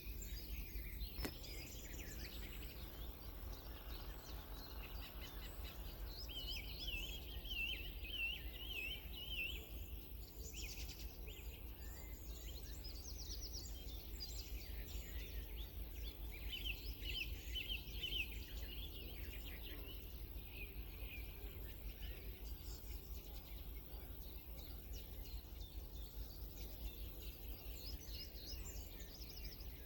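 Songbirds singing and calling, with several overlapping chirps and short phrases. A bright repeated trill stands out twice, about seven seconds in and again about sixteen seconds in. A steady low background rumble runs underneath.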